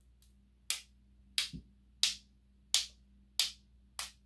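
A paint-loaded brush being tapped to spatter paint into snow spots: sharp taps at an even pace, about one every two-thirds of a second.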